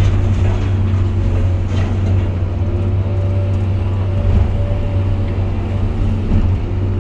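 Excavator's diesel engine and hydraulics running steadily under work, a deep steady drone with a faint whine held above it.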